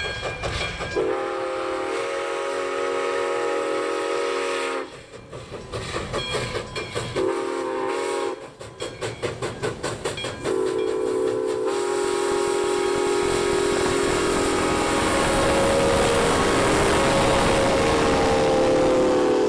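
A steam locomotive's chord whistle sounds the grade-crossing signal: a long blast, a short one, and a long drawn-out final blast. Between the blasts the locomotive's exhaust chuffs rapidly as it works past.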